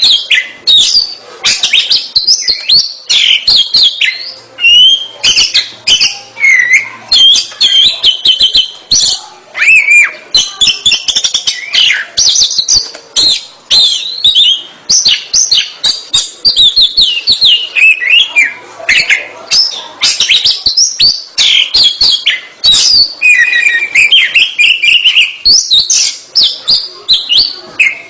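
Oriental magpie-robin (kacer) singing vigorously: a continuous, fast run of varied whistles, trills and chattering notes, one phrase after another without a break.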